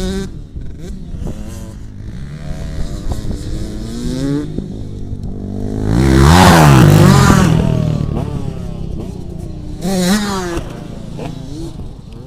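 Motocross dirt bike engines revving and accelerating, the pitch rising and falling with the throttle. About six seconds in, one bike passes close and loud, its pitch sweeping up and then down as it goes by. Another bike revs briefly near the ten-second mark.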